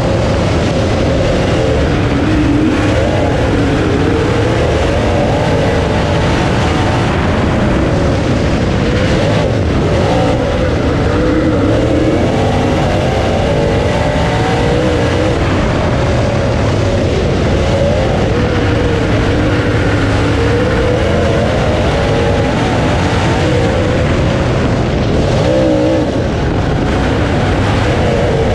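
Dirt late model race car's V8 engine running hard on track, heard on board. Its pitch keeps rising and falling as the throttle comes on and off, over a heavy, steady rush of noise.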